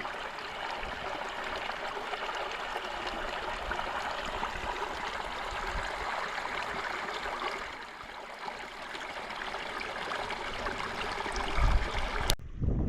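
Creek water running steadily over the streambed, a constant rushing and rippling that eases slightly about eight seconds in and cuts off sharply near the end.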